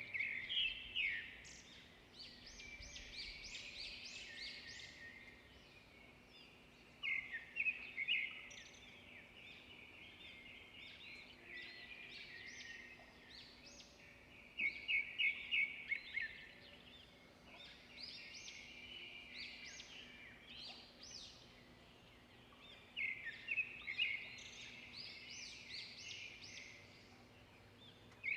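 Songbirds singing: loud bursts of quick chirping phrases come about every seven or eight seconds, with quieter twittering between them.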